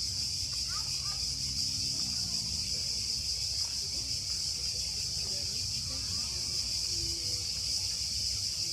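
Cicadas singing in chorus: a steady, high-pitched buzzing drone over a low rumble.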